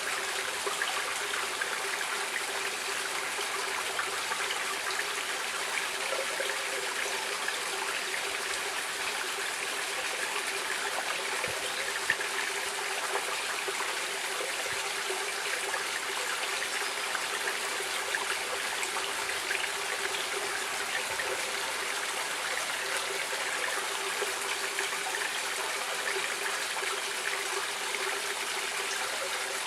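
Stream water flowing and trickling over rocks, a steady, even rush with small splashes.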